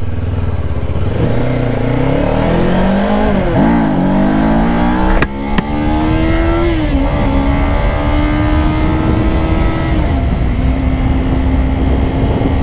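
Kawasaki Ninja 500 parallel-twin engine accelerating, its pitch climbing and dropping sharply twice on upshifts, then holding steady at cruise. There are two sharp clicks about halfway through, and a low rumble runs underneath.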